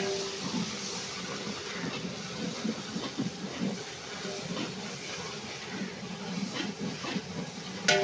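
Onions and masala frying in oil in a large aluminium pot: a steady sizzle and hiss, with a long steel ladle stirring and scraping through the mixture. There is a clink of the ladle on the pot near the end.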